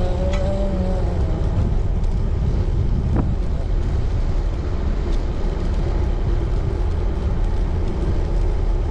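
Steady wind rumble on the microphone of a road bike being ridden, with one short click about three seconds in.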